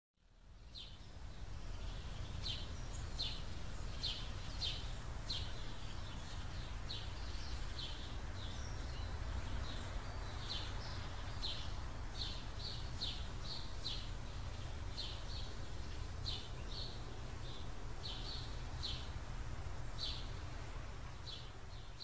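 Bird chirping: short high chirps repeating irregularly, often two or three a second, over a steady low rumble and hiss.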